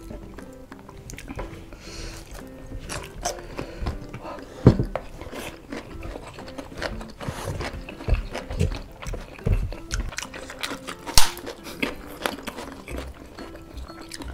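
Close-up eating sounds: chewing and crisp crunching of fried chicken and fried tempeh, with the loudest crunches about 4.5 and 11 seconds in. Soft background music plays underneath.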